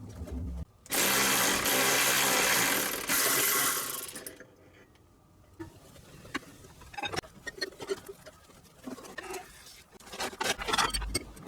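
A loud hiss lasting about three seconds, starting about a second in, followed by scattered light clicks and knocks of hand tools.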